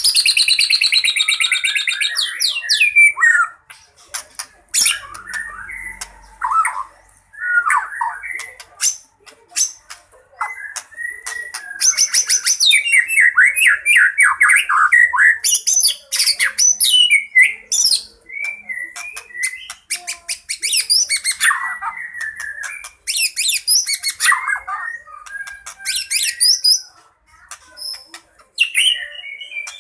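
White-rumped shama singing a loud, varied fighting song: quick phrases of fast trills, rattles, harsh notes and whistled slides with short pauses between them, packed with phrases borrowed from other birds.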